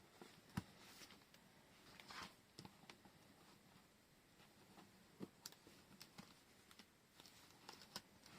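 Near silence with faint scattered taps and clicks and a few brief soft rustles from washi tape and paper being handled on a desk.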